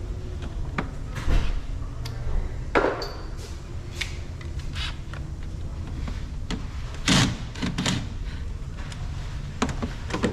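Scattered clicks, knocks and a short scrape of a tool and hands working loose the battery hold-down bracket pieces, over a steady low rumble.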